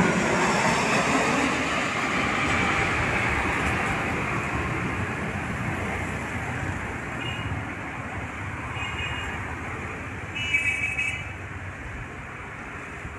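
Jet airliner's engine roar fading steadily after the landing aircraft has passed overhead, with road traffic beneath it. A few short high beeps, like vehicle horn toots, sound in the second half; the loudest comes about ten and a half seconds in.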